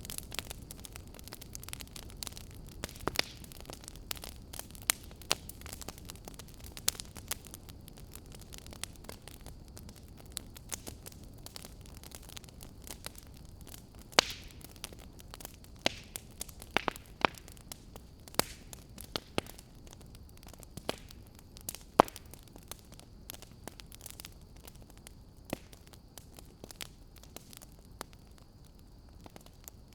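Wood fire burning in a fireplace: a low steady rumble under irregular sharp crackles and pops, a few louder snaps scattered through.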